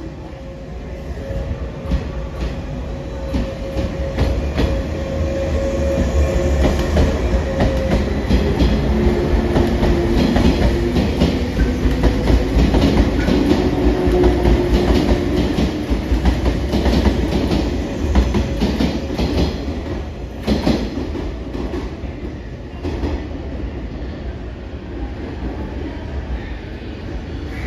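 485 series electric multiple unit pulling away from a station, wheels clicking over rail joints and a motor tone rising in pitch as it accelerates. The rumble grows louder toward the middle as the cars pass, then fades.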